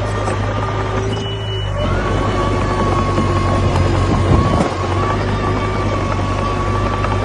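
Komatsu D21A bulldozer's diesel engine running steadily as the dozer works, with a brief drop in level between one and two seconds in before the engine note rises back up.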